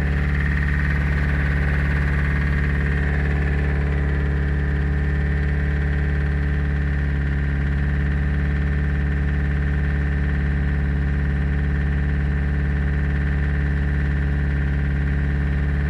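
Toyota Hiace engine idling steadily, running after a decoking treatment to burn out carbon deposits.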